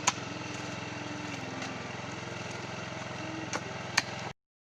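An engine running steadily at idle, with a few sharp knocks over it. The sound cuts off suddenly near the end.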